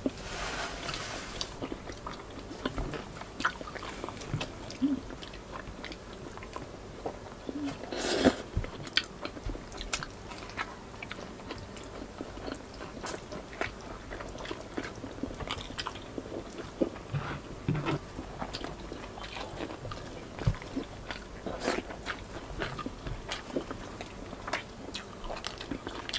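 Close-miked chewing and biting as two people eat crispy fried pork belly and braised pork hock: many small wet mouth clicks and light crunches, with one louder crunch about eight seconds in.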